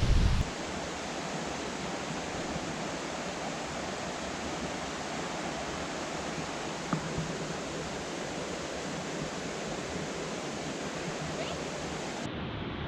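Steady rushing of a tall waterfall of about 104 metres, heard close to its base as an even wash of falling water, with a short burst of wind on the microphone right at the start.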